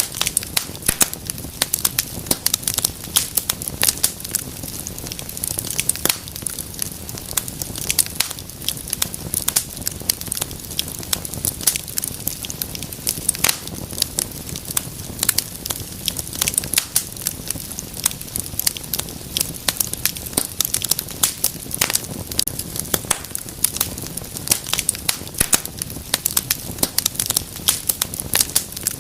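Wood fire crackling, with many irregular sharp pops and snaps over a low steady hiss of burning.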